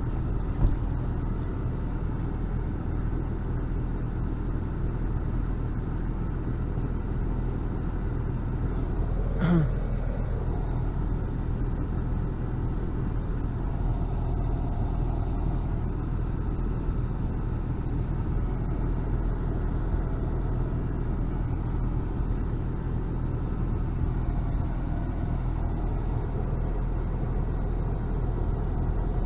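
Car engine idling, heard from inside the cabin as a steady low rumble, with one brief short sound about nine and a half seconds in.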